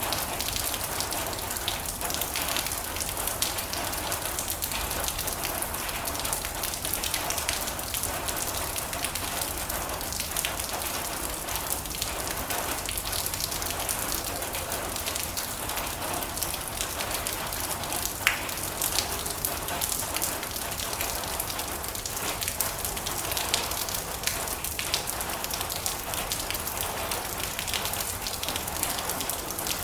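Steady rain falling on a metal roof: a dense patter of drops with many small sharp ticks.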